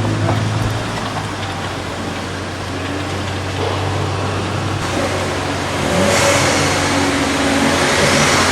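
A car engine running with a steady low drone. About five to six seconds in, the engine note rises and a louder rushing noise joins it.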